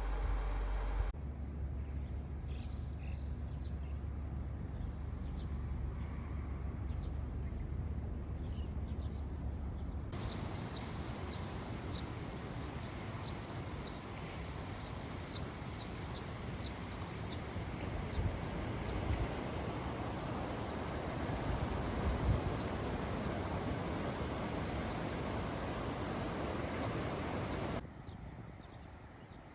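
Outdoor morning ambience in a few cut shots. First a steady low hum with faint high chirps, then a steady rushing noise with a short high chirp repeating a little more than once a second.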